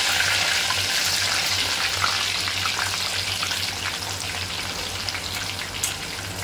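Washed bitter gourd (karela) pieces sizzling hard in hot oil, with scattered pops; the sizzle eases off slowly as the water on them cooks away.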